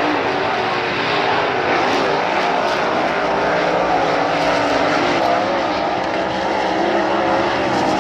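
Several sprint cars' V8 engines running together around a dirt track, a loud continuous engine noise whose overlapping pitches keep rising and falling as the cars circle.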